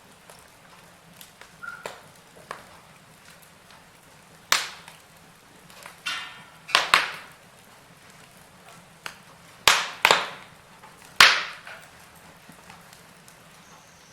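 Wood fire in a fireplace crackling: a soft hiss of flames broken by sharp pops and cracks, the loudest coming in a cluster over the second half, with a short hiss of escaping gas from the wood just before the middle.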